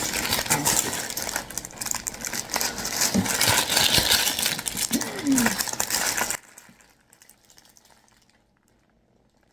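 Loud rustling and clattering of takeout food packaging being handled, cutting off abruptly about six seconds in, followed by near silence.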